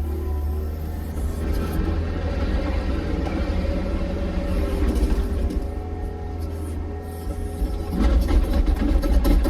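A vehicle running with a steady low rumble that grows a little louder near the end.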